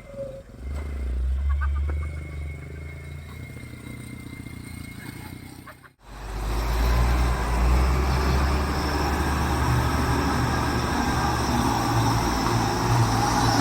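Heavy diesel truck engine running steadily under load. About six seconds in the sound cuts off abruptly and returns louder, with a faint high whine over the engine.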